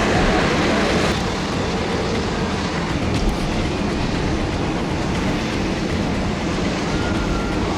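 Military helicopters in flight: a loud, steady rumble of rotors and turbine engines with a fast low pulsing.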